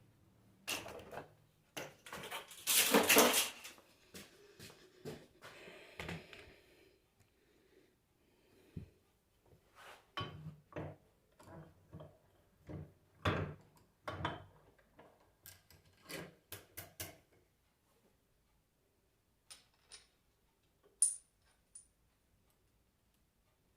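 Irregular knocks and clicks of metal parts and tools being handled and set down on a workbench, with a louder noisy scrape about three seconds in and a few small sharp clicks near the end.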